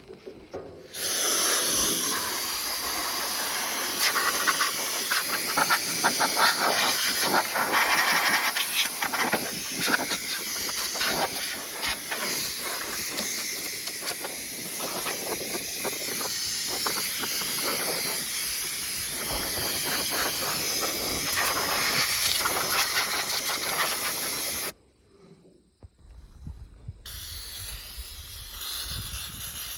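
Compressed air hissing from a blow gun in one long continuous blast, unsteady as it blows chaff out of the knotters of a Massey Ferguson 10 square baler. It stops sharply about 25 s in, and a quieter hiss starts again a couple of seconds later.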